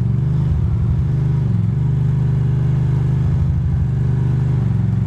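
2006 Ducati Monster 620's air-cooled L-twin engine running at a steady cruise while the bike rides in traffic, with a brief dip in engine pitch about one and a half seconds in.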